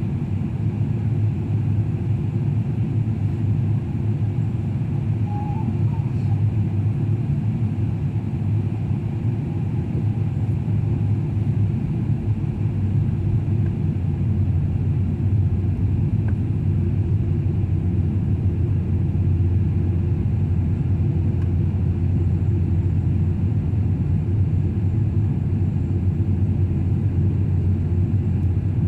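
Steady, deep cabin rumble of a Boeing 777-300 airliner in flight: engine and airflow noise, unchanging throughout.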